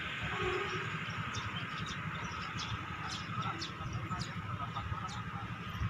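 Outdoor ambience: small birds chirping in short high notes scattered through, over a steady low rumble.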